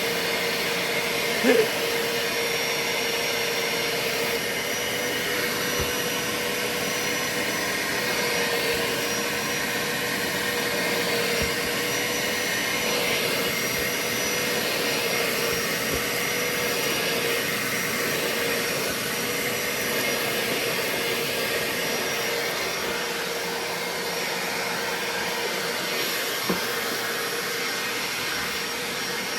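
BAUER 3-gallon, 3 peak HP wet/dry shop vacuum running steadily with a constant whine over its air rush. A brief loud knock about a second and a half in and a few faint short clicks later.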